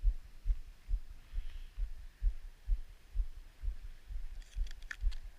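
Low dull thumps about twice a second from walking footsteps jolting a handheld camera's microphone, with a few light clicks near the end.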